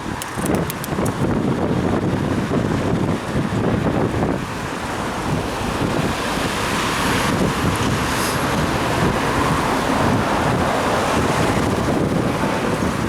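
Wind buffeting the microphone of a head-mounted action camera on a moving bicycle: a steady rumbling rush. A hiss swells in the middle and eases off near the end, and a few faint clicks come about a second in.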